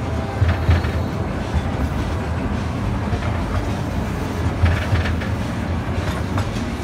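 Amusement-park ride train running along its track: a steady low rumble of the cars' wheels and running gear, with a few brief louder clacks.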